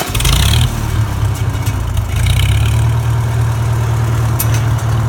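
1944 McCormick-Deering O-4 orchard tractor's four-cylinder engine, just fired up, running a little louder for the first half second or so, then settling into a steady idle.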